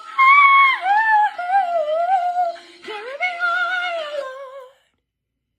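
A woman singing high, wordless melismatic runs over a few faint held accompaniment notes, ending on a falling phrase that fades out before the end.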